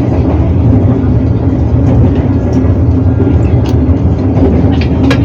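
Passenger train in motion, a loud steady rumble with a constant low hum and a few light clicks.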